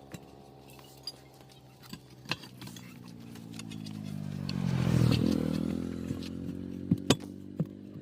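An engine running, swelling to its loudest about halfway through and then easing off, with scattered sharp metallic clinks.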